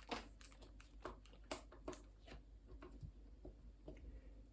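Lego bricks being handled and pressed together: faint, irregular small plastic clicks.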